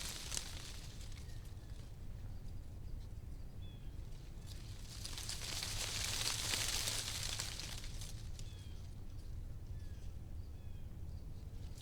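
Wind gusting through tree leaves: the rustle swells to a peak about midway and eases off again, over a low steady wind rumble. A few faint short bird chirps come through between gusts.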